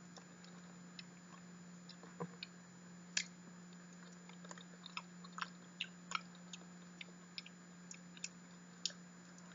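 Close-miked mouth sounds of chewing soft, custardy durian flesh: scattered wet clicks and smacks at uneven gaps, over a faint steady low hum.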